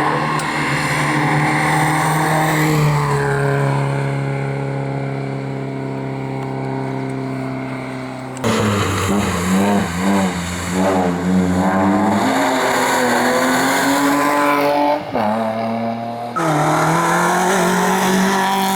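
Race car engines at full throttle on a hillclimb, in several cut-together passes: first a long steady pull whose pitch sags slowly, then revs swinging quickly up and down through throttle lifts and gear changes, then steady high revs again.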